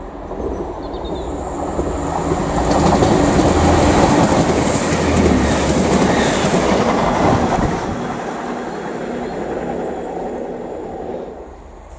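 GWR passenger train passing through the station at speed without stopping. It builds quickly and is loudest a few seconds in as it rushes past, with wheel clatter, then fades and drops away near the end.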